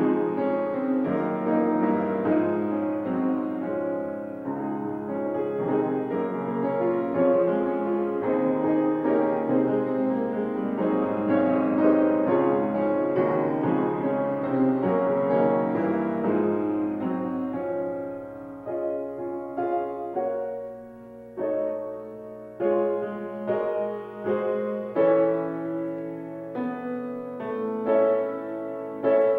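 Piano playing a slow chordal piece; past the middle the chords are struck one at a time with short breaks between them, then it fills out again.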